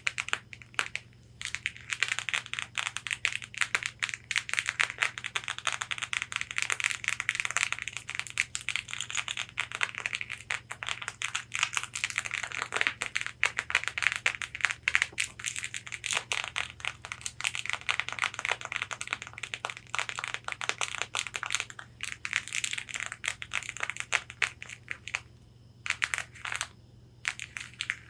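Long fingernails tapping and scratching rapidly on a corset's fabric bodice: a dense run of crisp clicks mixed with scratchy rustling, with a brief pause near the end.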